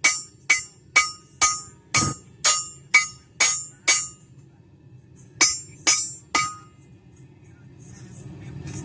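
Hand hammer striking a hot railroad spike on an anvil, each blow ringing. About nine blows come at roughly two a second, then a pause, then three more blows a little past halfway.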